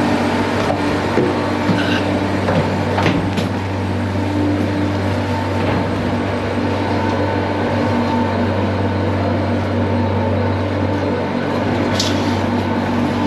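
Steady low hum of ship's machinery heard from inside the hull, with a few sharp metallic knocks, twice about three seconds in and once near the end.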